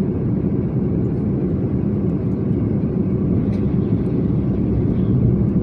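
Passenger airliner cabin noise in flight during the descent: a steady low drone of engines and airflow.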